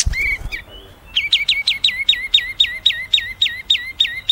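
Songbird calling in a fast, even series of sharp notes, about four a second, each note sweeping steeply down in pitch, after a brief call and a low thump at the start.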